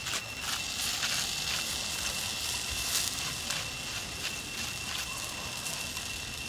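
Open wood fire crackling: scattered small pops over a steady hiss, with a thin high tone held steady beneath.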